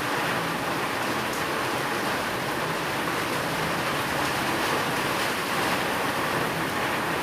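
Steady rain falling as an even, unbroken hiss, with no thunder.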